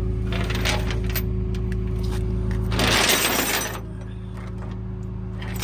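Diesel engine idling steadily with scattered metal clanks, and a loud burst of air hiss lasting about a second, about three seconds in, after which the engine's low hum drops.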